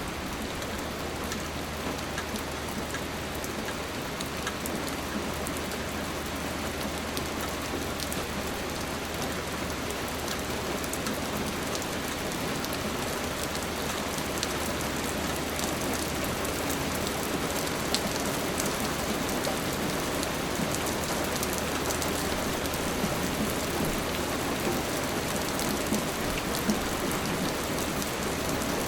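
Steady rain falling on a surface, a continuous hiss with scattered individual drop ticks.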